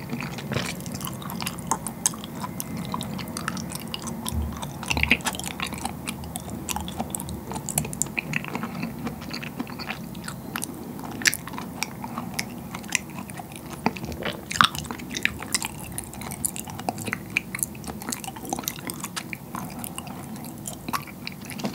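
Close-miked chewing of firm, jelly-like white pearls, seaweed-based bubble-tea pearls, with many small sharp wet clicks from the mouth, a few louder ones.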